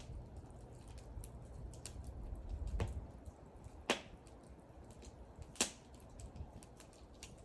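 Wood fire crackling: scattered small ticks and three sharp, louder pops of burning wood, about a second apart in the middle, over a steady low rumble.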